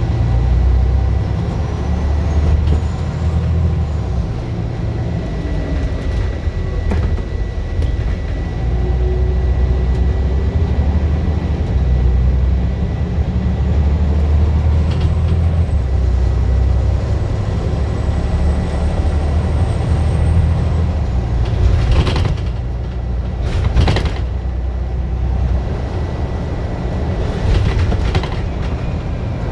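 Scania bus engine running hard, its low drone surging and dropping several times as the bus pulls away and changes gear, with a thin steady whine over it. A few loud clattering knocks come about twenty-two to twenty-four seconds in and again near the end.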